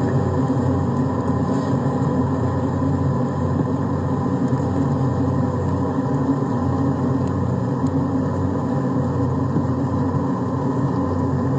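Bee vacuum's motor running steadily while sucking bees out of a hive.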